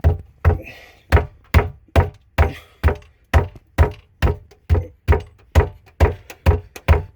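A wooden shelf being struck over and over, about two dull knocks a second, in an attempt to knock it loose. It stays stuck fast, which she puts down to its being glued in.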